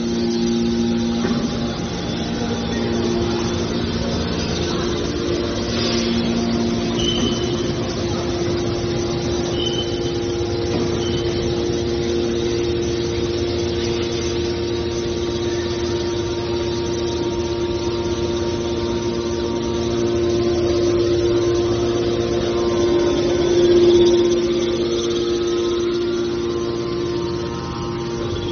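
Hydraulic scrap car baler's power unit running with a steady hum, swelling briefly once late on.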